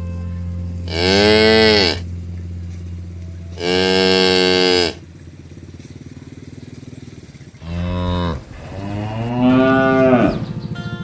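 Cows mooing: four long moos, one after another, over a steady low hum.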